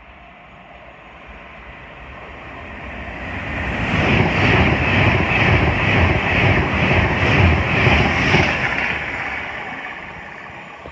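A high-speed passenger train passing through a station at speed without stopping. Its noise builds over a few seconds, is loudest for about four seconds with a regular beat from the wheels on the rails, then fades as it runs away into the distance.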